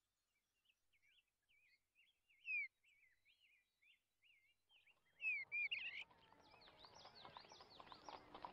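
Small birds chirping in short rising and falling calls, a few louder ones about two and a half seconds in and again around five seconds. From about five seconds a busy background of mixed noise swells in beneath them.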